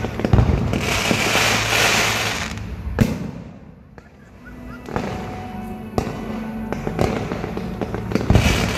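Fireworks display: dense crackling and bangs from aerial shells and comets, then a sharp bang about three seconds in followed by a short lull. After that come single bangs about a second apart, building to a loud, dense burst near the end.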